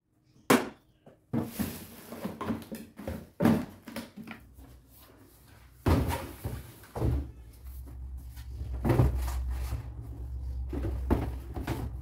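Knocks and clatter of things being handled, with cabinet doors opening and closing. A steady low hum joins about seven seconds in.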